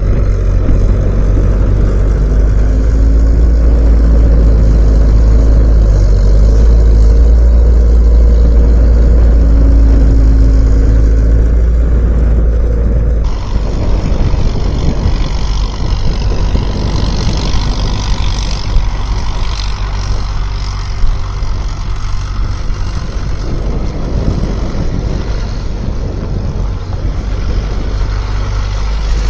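Skid steer engine running with a deep steady rumble. About halfway through the sound changes abruptly: the low rumble drops away and a higher hiss comes in, with a couple of short knocks.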